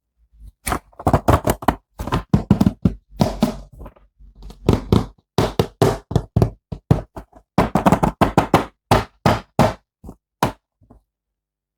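Toy figure and its packaging being handled: a quick, irregular run of knocks, taps and clicks, thinning out and stopping about eleven seconds in.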